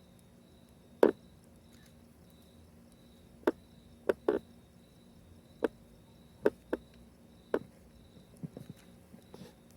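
Wood bonfire crackling: about a dozen sharp pops at irregular intervals, the loudest about a second in.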